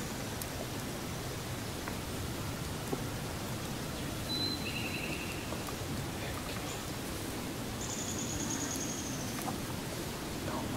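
Steady hiss of rain falling in woodland, with a few brief high chirps and trills from small birds partway through.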